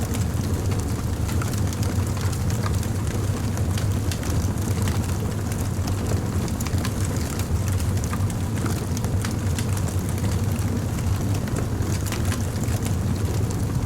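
Fire crackling, with frequent small irregular pops and snaps over a steady low rumble.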